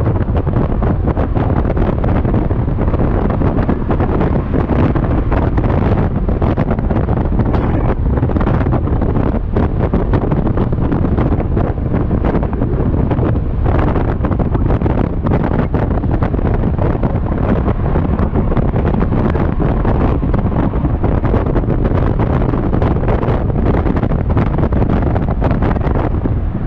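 Heavy, steady wind rush buffeting the camera microphone of a Yamaha XMAX scooter riding at freeway speed, covering the scooter's running and road noise.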